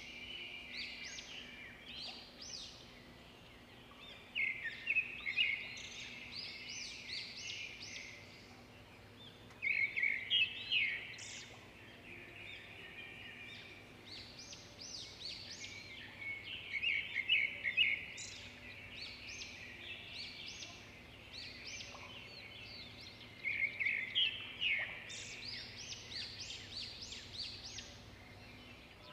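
Birds chirping in the garden trees, rapid runs of short high notes coming in several bursts, over a faint steady hum.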